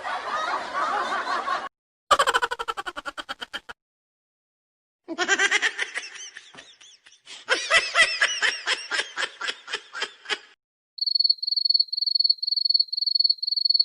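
A run of short laughter sound effects separated by brief silences, one after another, ending with a high, rapidly pulsing chirp about two-thirds of the way through.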